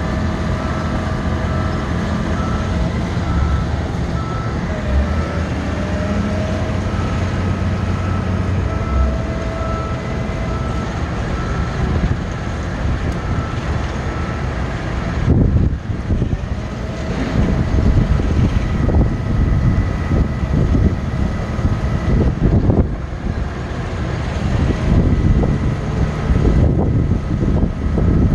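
Utility truck running with its aerial bucket boom working: a steady engine rumble with thin, steady whining tones over it. About halfway in it turns louder and rougher.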